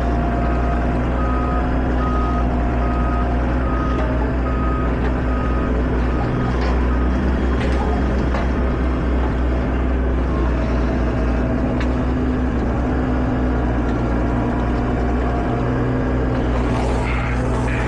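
Farm vehicle's engine running steadily while its reversing alarm beeps at an even pace, the beeping stopping about six seconds in.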